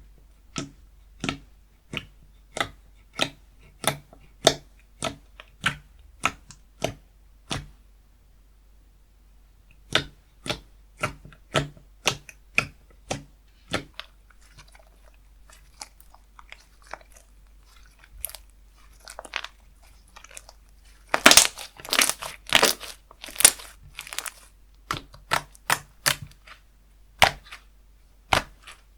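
Slime being worked by hand: a run of sharp, evenly spaced pops and clicks as it is pressed and poked, then faint crackling, then louder, longer crunching squishes from about two-thirds of the way in.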